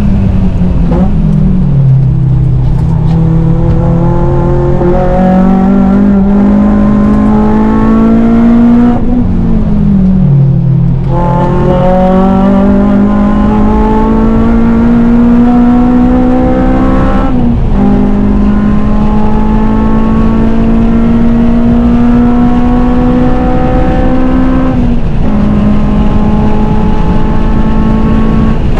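Honda Civic Type R (FN2) four-cylinder engine with a cat-back exhaust, driven hard on track: the pitch climbs steadily as it pulls through each gear, then drops sharply at each change. The longest dip in revs comes about ten seconds in, as for slowing for a corner.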